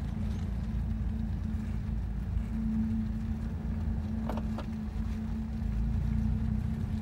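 Road noise inside a moving Mazdaspeed3 with a steady low hum, heard as the car turns right: the sign of a failing front wheel bearing.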